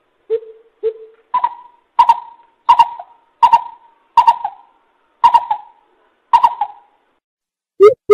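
Greater coucal calling: a series of about nine deep hooting notes, the first few lower and softer, the rest higher and louder, roughly one every two-thirds of a second.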